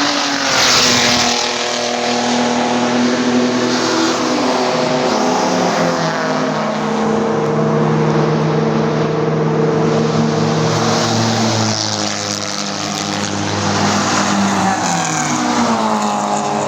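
Several classic racing cars' engines running hard together, their notes dropping and climbing again as they change gear and pass by.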